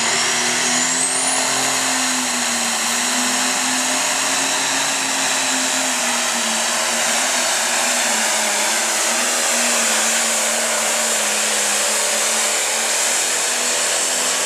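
Light pro stock pulling tractor's turbocharged diesel engine held at full throttle while it pulls the sled down the track. A high whine climbs in pitch over the first second or two, and the engine note stays steady with slight wavering. Right at the end the sound drops away as the throttle comes off.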